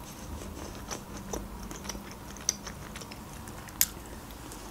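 Soft close-miked chewing and mouth sounds with a few separate sharp clicks; the sharpest click comes about four seconds in.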